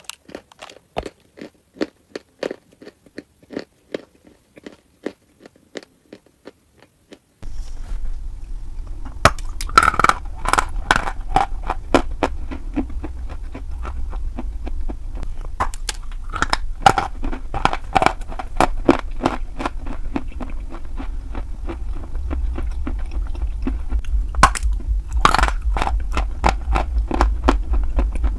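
Crunching and chewing of hard chalk, close to the microphone. For about seven seconds there are separate sharp crunches; then a steady low hum starts abruptly and the crunching becomes dense and continuous.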